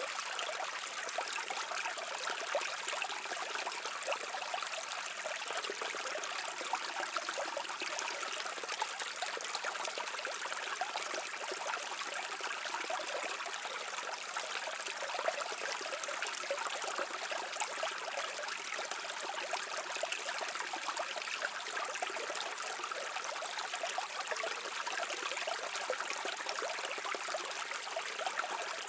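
Stream water flowing steadily: a continuous rush and trickle, mostly high-pitched with very little low rumble.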